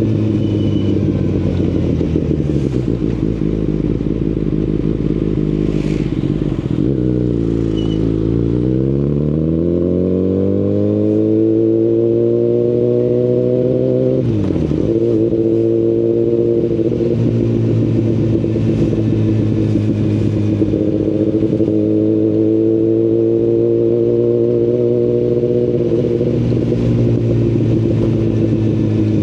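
A 2019 Kawasaki Ninja ZX-10RR's inline-four running through an Akrapovic Evolution Line carbon full exhaust while being ridden. The engine note falls as the bike slows over the first several seconds, then climbs steadily under acceleration, drops sharply about halfway through, rises again and holds a fairly steady cruise, and dips once more near the end.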